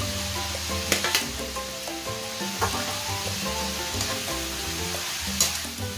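Ground meat, sliced hotdogs and mushrooms sizzling in a hot aluminium wok, stirred with a metal spatula. The utensils knock sharply against the pan twice about a second in and once near the end.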